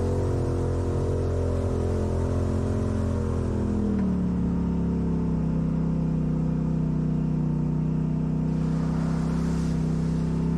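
Off-road vehicle engine running at raised revs, then easing down about four seconds in and holding a lower, steady speed.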